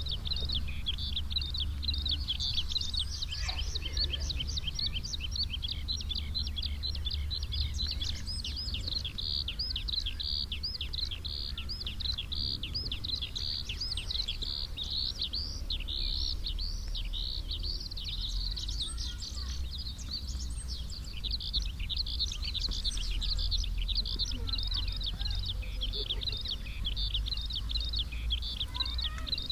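Many small birds chirping rapidly and continuously in a dense chorus of high, overlapping notes, over a steady low rumble.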